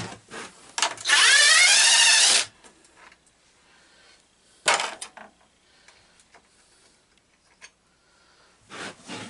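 A small power tool's motor runs for about a second and a half, starting about a second in, its whine rising in pitch as it spins up. A sharp clack follows near the middle, and light handling knocks come near the end.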